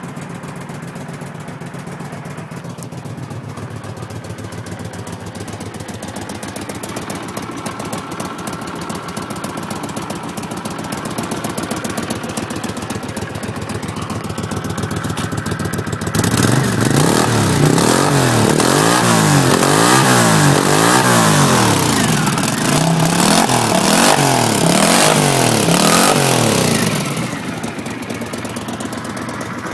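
Honda Silver Wing Interstate motorcycle's V-twin engine idling steadily, then revved again and again for about ten seconds from a little past halfway, the revs climbing and dropping each time, before settling back to idle near the end.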